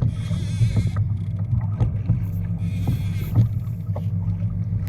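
Water rushing and splashing against a fishing kayak's hull as a big hooked fish tows it, over a steady low rumble. Two louder bursts of splashing hiss come, one at the start and one around the middle.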